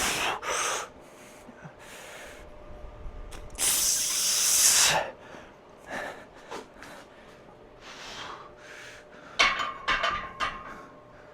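A man breathing hard through a set of barbell squats: sharp, hissing breaths every second or two, the longest and loudest about four seconds in. A few sharp knocks come near the end.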